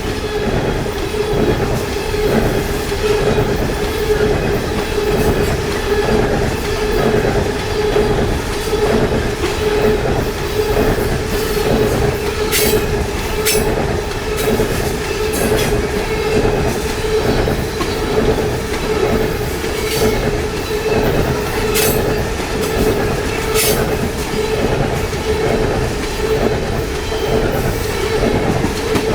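Railroad cars rolling past at trackside, wheels clacking rhythmically over the rail joints, with a steady tone held throughout and occasional sharp clicks.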